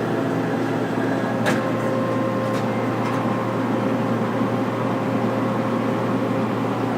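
A large Mori Seiki SL-8 CNC lathe running under power: a steady machine hum with a constant whine, and a few sharp clicks between about one and a half and three seconds in.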